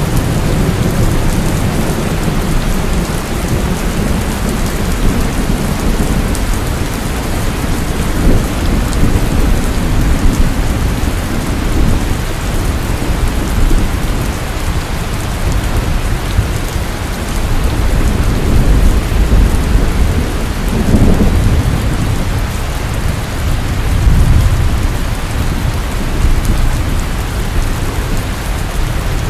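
Heavy rain pouring steadily, with thunder rumbling low and swelling several times, most strongly in the second half.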